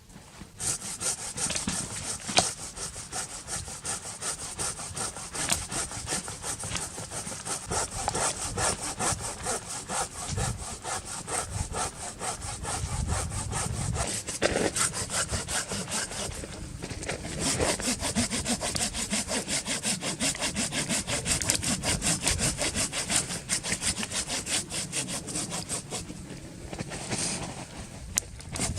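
Hand saw cutting through wood in quick, steady back-and-forth strokes, pausing briefly twice.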